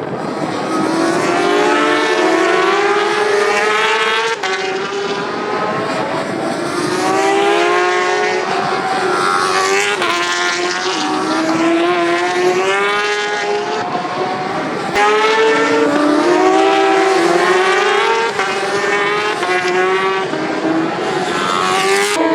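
Racing superbike engines revving hard and climbing through the gears, the pitch rising and then dropping back at each shift, with more than one bike heard at once. The sound changes abruptly a few times, at about four seconds, fifteen seconds and near the end.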